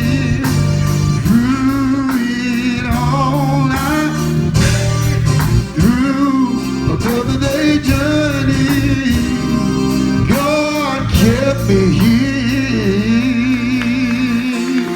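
Gospel song: a voice sings drawn-out, wordless or melismatic notes with strong vibrato over a steady instrumental accompaniment.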